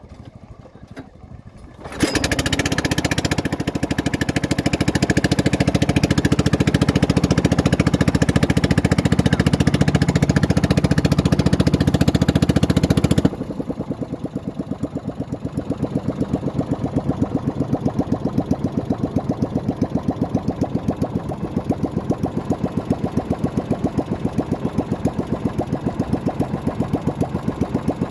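Small boat's outboard motor coming in loud about two seconds in and running hard. About halfway through it drops suddenly to a quieter, slower run with an even pulse, throttled back.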